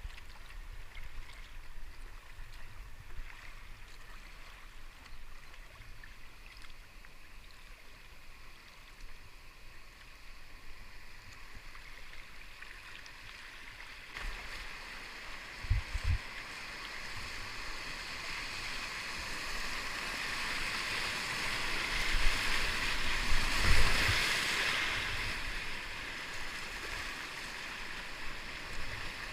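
Rushing river water in a whitewater run, growing louder about two thirds of the way through as it reaches its peak, then easing off a little. A few short low thumps come through at about the midpoint and again at the loudest part.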